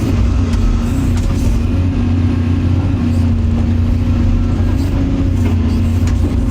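Excavator's diesel engine running steadily with a low hum, its pitch wavering slightly.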